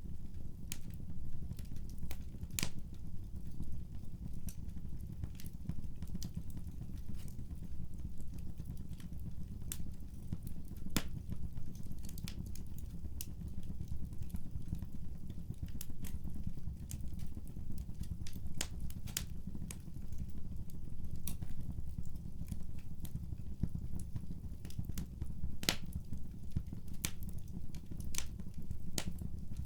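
Fireplace wood fire crackling: irregular sharp pops and snaps, a few of them louder, over a steady low rumble.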